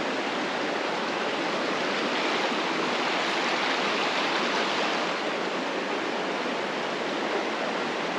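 Flowing creek water rushing steadily, an even, unbroken wash of noise.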